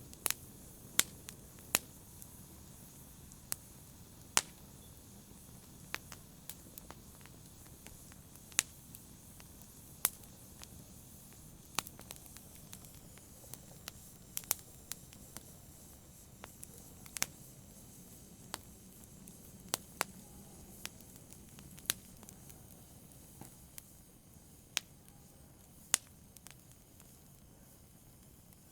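Fireplace fire crackling: irregular sharp pops and snaps, a few of them loud, over a low steady hiss of burning.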